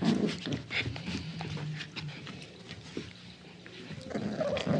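Small dog growling at play while tugging a toy, a low steady rumble with scattered clicks and scuffles, and a short higher whine near the end.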